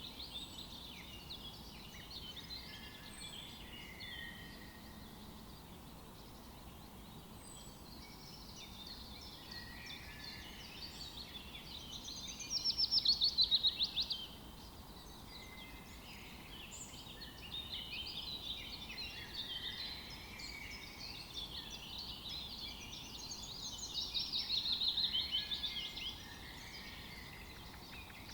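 Several songbirds chirping and singing over one another. Two louder, rapid trills drop in pitch: one about halfway through, one near the end.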